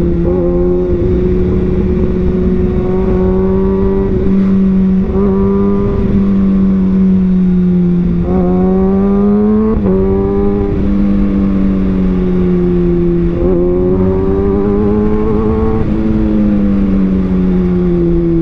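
Kawasaki Ninja ZX-6R's inline-four engine running under way. Its note rises in several short surges as the throttle opens, at about 3, 5, 8 and 13 seconds in, and eases back in between, over a steady rush of noise.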